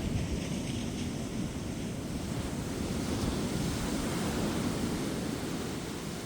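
Ocean surf washing on a beach, a steady low rushing of breaking waves that swells a little through the middle, with wind buffeting the microphone.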